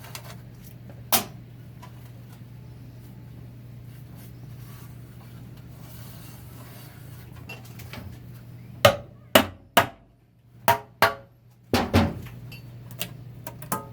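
Hammer blows on a 4L60-E automatic transmission being torn down: a single knock about a second in, then a run of about seven sharp, irregularly spaced blows in the last five seconds, over a steady low hum.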